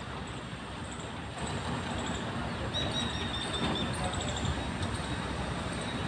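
A steady outdoor rumble with small birds chirping over it, a run of high, short chirps about three seconds in.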